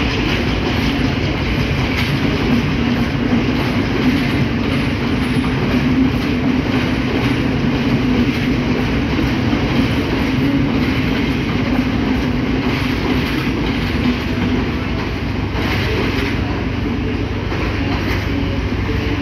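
Diesel passenger train carriages rolling out of the station: a steady rumble, with the wheels clicking over the rail joints.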